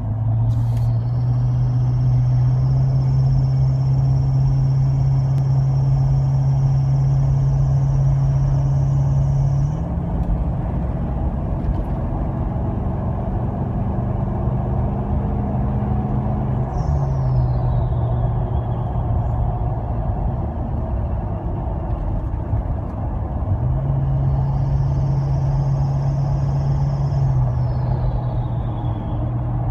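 Twin turbochargers of a Toyota Land Cruiser 200's V8 diesel, with a modified intake, whistling high over the engine's steady running. The whistle holds for several seconds, then glides down about halfway through and again near the end as the revs drop.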